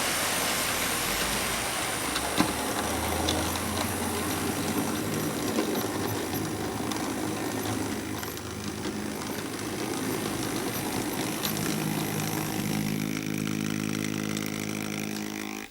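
Model train running on the layout track: a steady whirring motor and wheel noise with occasional sharp ticks, and a steady hum with a firmer tone over the last few seconds before the sound cuts off abruptly.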